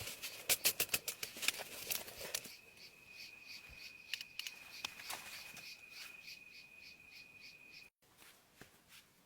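A burst of sharp crackling and rustling clicks, then insects calling: a steady high buzz with rhythmic chirps about three a second, broken off by a cut near the end.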